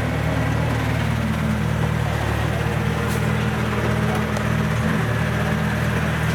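Farm machine's diesel engine running steadily close by, its pitch easing down slightly about a second in.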